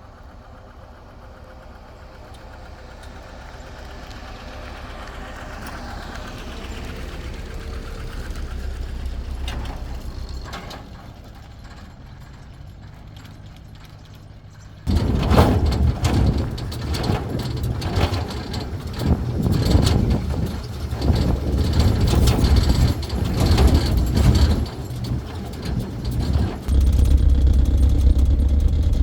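Motor vehicle engine running, growing louder for several seconds and then easing off. About fifteen seconds in it cuts suddenly to a louder, closer engine with repeated clanks and knocks.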